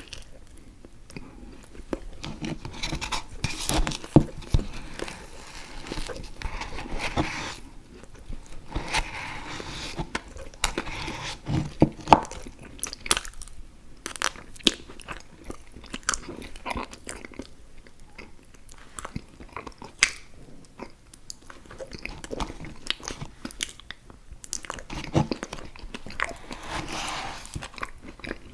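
Close-miked biting and chewing of food: a steady run of small crunches and mouth clicks, with a few louder bites.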